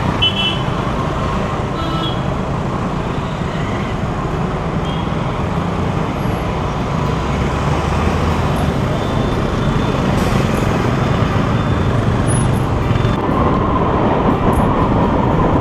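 Steady road traffic noise from passing cars, scooters and other vehicles in a busy street.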